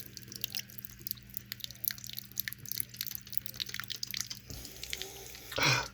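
Cat lapping water from a thin trickle at a kitchen faucet: a quick, irregular patter of small drips and laps over a steady low hum.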